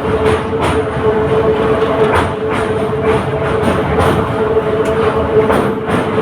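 Electric local train running at speed, with a steady hum under the running noise and irregular clacks as the wheels pass over rail joints.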